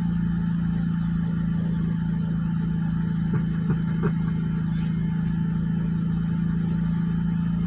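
A steady, unchanging low hum at a single pitch, with three soft clicks a little over three seconds in.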